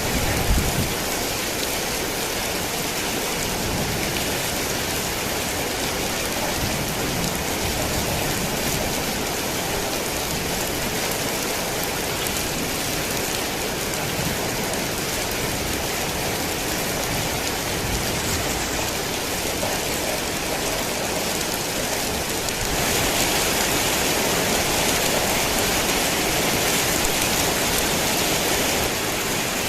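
Heavy rain falling steadily, a dense even hiss; it grows louder about 23 seconds in and eases back near the end.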